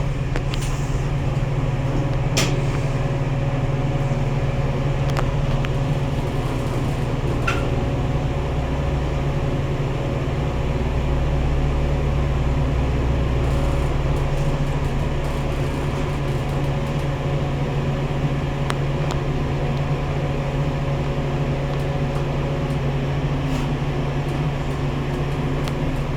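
Station elevator running: a steady machine hum with a deeper rumble that swells for a few seconds in the middle of the ride, and a couple of sharp clicks in the first several seconds.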